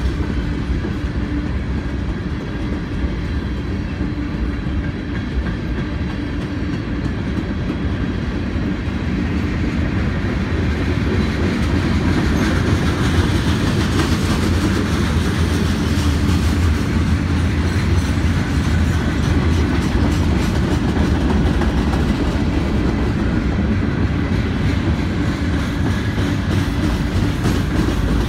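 Freight cars of a CSX mixed freight train rolling past close by, a steady rumble of steel wheels on the rails that grows a little louder about halfway through.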